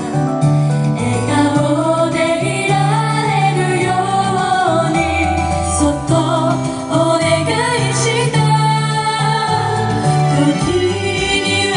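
Female voices singing a J-pop song live over an instrumental backing with a steady bass line.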